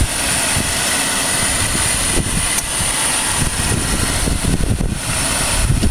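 Cadillac Northstar 32-valve 4.6-litre V8 idling steadily, heard from above the open engine bay.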